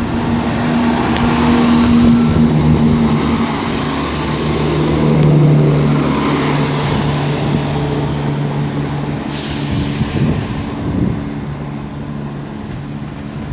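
Class 170 Turbostar diesel multiple unit pulling out of the station, its underfloor diesel engines running loud and steady, with the engine note shifting in pitch a couple of times as it accelerates. It eases off over the last few seconds.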